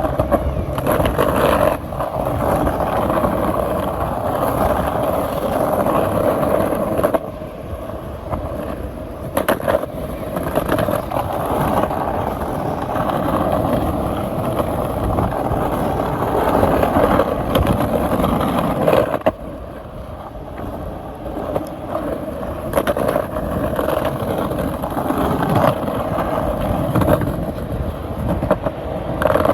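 Skateboard wheels rolling continuously over pavement, a steady grinding roar that eases briefly twice.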